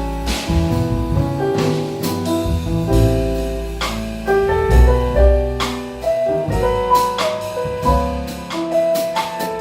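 A jazz piano trio playing: piano chords and lines over deep bass notes, with repeated cymbal and drum strikes.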